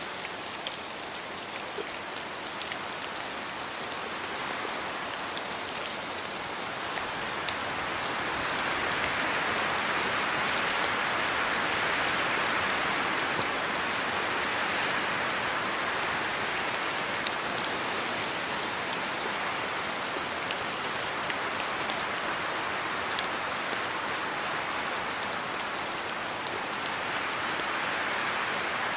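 Steady rain falling on hard surfaces, with scattered sharp drips standing out. It grows heavier about a third of the way in, then eases slightly.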